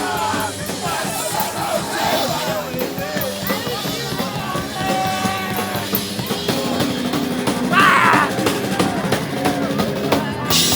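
Live punk band on stage between songs, with drums and guitars sounding amid shouting from the crowd and stage; near the end the full band comes in louder.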